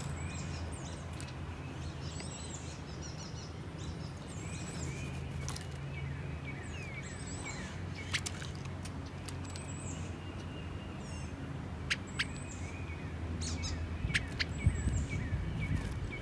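Small backyard songbirds chirping and calling in short, high notes, several overlapping, with a few sharp clicks. A steady low hum runs underneath.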